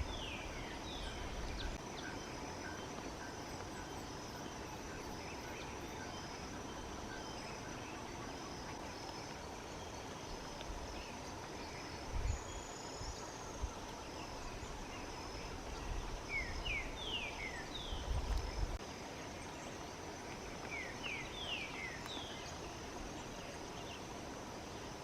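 Ochre-faced tody-flycatcher calling: three short bursts of four or five quick notes, each sliding downward. Behind it, insects chirp steadily with a fast, even pulse. A few low thumps come about halfway through and again near 18 seconds.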